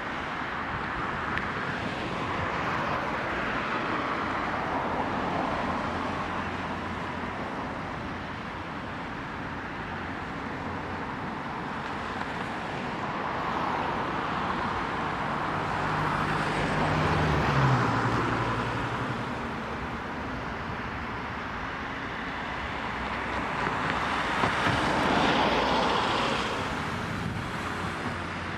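City street traffic: cars pass one after another, each swelling and fading, the loudest about two-thirds of the way through with a low engine hum that drops in pitch as it goes by.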